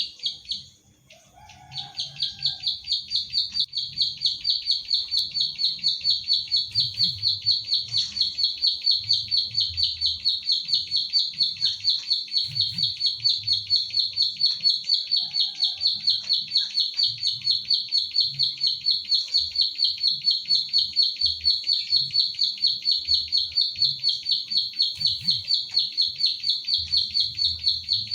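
Plain prinia (ciblek sawah) singing its 'klik klik' song: a brief burst, a pause of about a second, then a long, unbroken run of rapid, even, high clicking notes, about five a second.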